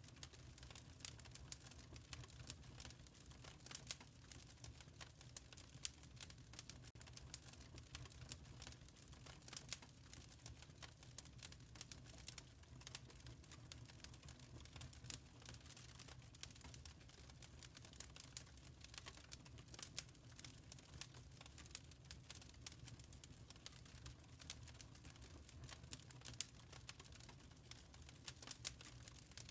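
Faint fireplace wood fire crackling: a steady stream of small irregular snaps and pops over a low, even rumble.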